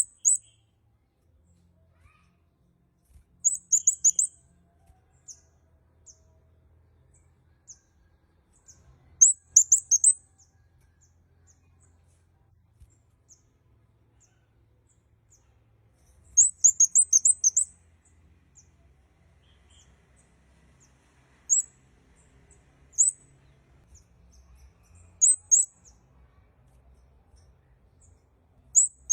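Kemade kepala merah bird calling in clusters of very high, quick chirps, each cluster lasting about a second with pauses of several seconds between; later calls are shorter single chirps and pairs.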